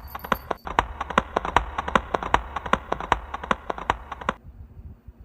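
Quick run of footsteps clattering on a hard floor, about five or six a second, stopping about four seconds in.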